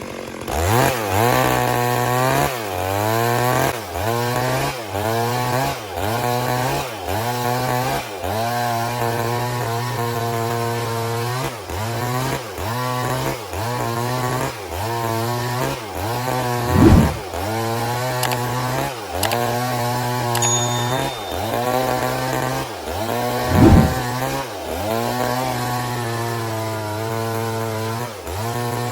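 Stihl MS 382 two-stroke chainsaw ripping a log lengthwise, its engine pitch dipping under load and recovering about once a second. Two short, loud thumps break in, one past the middle and one about two-thirds through.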